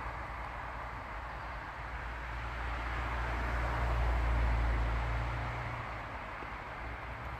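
Road traffic: a vehicle passing, its rumble and tyre noise swelling to a peak about four seconds in and then fading.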